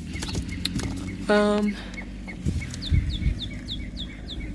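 Birds chirping: one repeats a short chirp about four times a second while another adds quick falling chirps near the end. A short pitched call sounds about a second in, and a couple of dull thumps come around three seconds.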